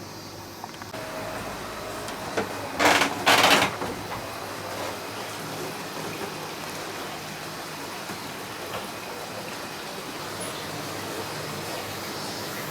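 Steady rushing of a mountain stream, with two short, loud noisy bursts close together about three seconds in.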